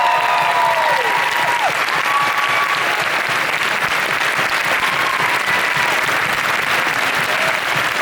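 Audience applauding steadily: a large crowd clapping.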